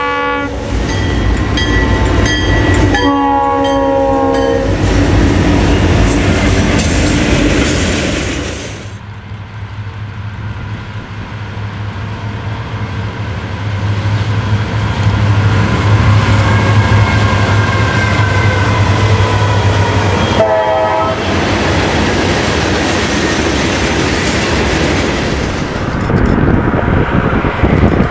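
Diesel freight trains passing, with the locomotive engines droning and the wheels running on the rails. Locomotive air horn blasts sound at the very start, again from about three to five seconds in, and once briefly about twenty seconds in.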